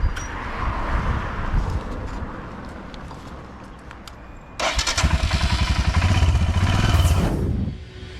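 Royal Enfield Himalayan single-cylinder motorcycle engine running on the move, with road noise. About four and a half seconds in it turns suddenly much louder, with a rapid low thudding, for about three seconds, then drops away.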